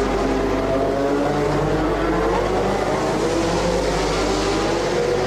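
Formula One car engines running, several engine notes overlapping at a fairly steady pitch that wavers only slightly.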